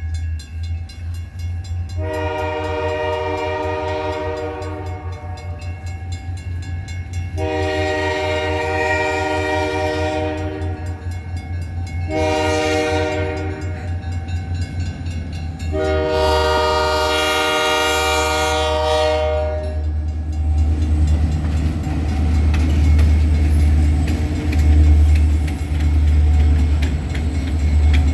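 Diesel locomotive horn sounding the grade-crossing signal: two long blasts, one short and a final long one, each a chord of several steady tones. Under it runs a deep, steady rumble from the locomotives' diesel engines, which grows louder in the last third as the train comes closer.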